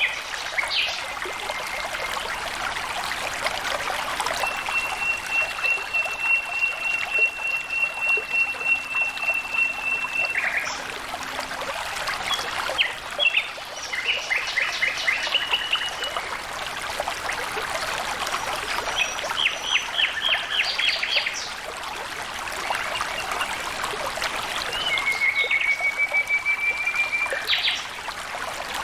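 Flowing water trickling steadily, with small birds calling over it: a long even trill, then a few short runs of quick notes, and a second trill that rises slightly near the end.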